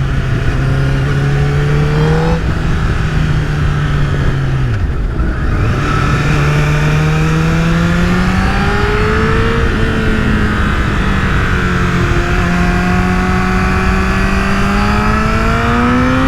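Honda CBR1000RR Fireblade's 998 cc inline-four running at highway speed under throttle, heard from on board with wind rush. The engine note holds steady, drops sharply for a moment about five seconds in, then climbs steadily as the bike accelerates.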